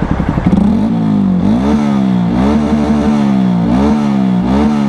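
Honda CRF 150L single-cylinder four-stroke engine, fitted with a Tridente F19 full-system aftermarket exhaust set to its silent mode. It idles lumpily at first, then from about a second in is revved in several short throttle blips, each pitch rise falling back.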